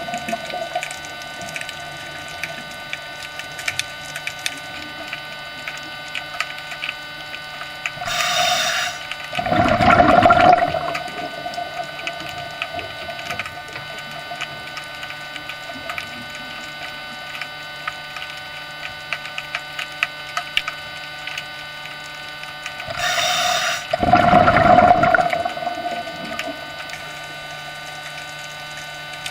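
Steady hum of aquarium equipment made of many fixed tones. It is broken twice, about fifteen seconds apart, by a couple of seconds of louder rushing, water-like noise.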